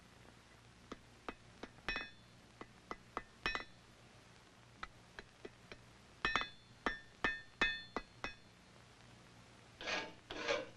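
Light hammer blows on an anvil, irregular and ringing, as a flintlock's spring-steel mainspring is forged and bent into a V shape. Near the end, rasping file strokes begin.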